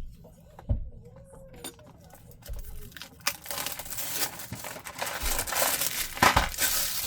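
Crinkling and rustling of plastic packaging being handled, with scattered clicks, growing louder and busier from about three seconds in.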